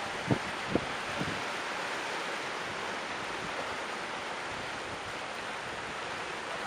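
Sea surf washing steadily against a rocky shore, with two short sharp knocks in the first second.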